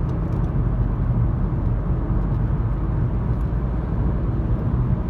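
Road and engine noise heard from inside a moving car at highway speed: a steady low rumble with tyre hiss.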